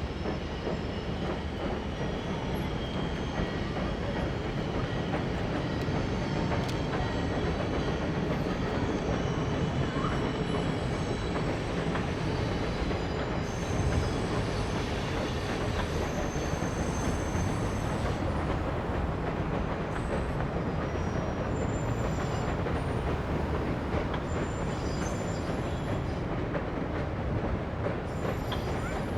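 Passenger train rolling along the rails: a steady rumble of wheels on track, with thin high wheel squeals coming and going.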